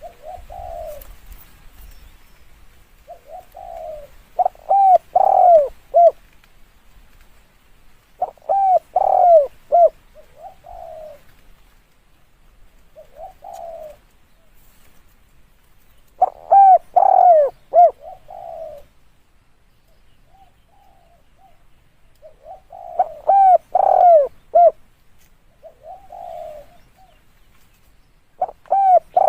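Spotted dove cooing: phrases that start with a few softer coos and end in several loud, arching coos. About five such phrases come every few seconds, with quiet gaps between.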